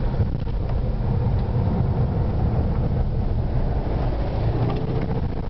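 Porsche Panamera Turbo's twin-turbo V8 pulling hard through a bend on track, heard from inside the cabin as a steady low rumble mixed with road noise.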